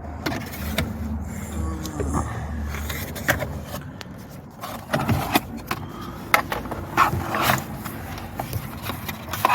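Plastic clicks, taps and scraping as a Mercedes W203 instrument cluster's housing is worked apart by hand, its clips and connectors being pried, with irregular sharp clicks scattered throughout.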